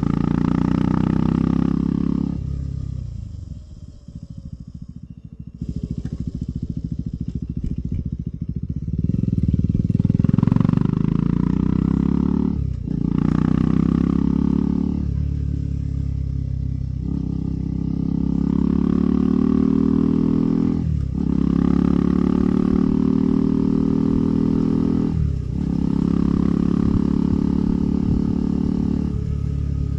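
KTM 390 Adventure's single-cylinder engine under way. The throttle is eased off a few seconds in, then the engine pulls up through the gears, rising in pitch with a brief break at each shift, about three times.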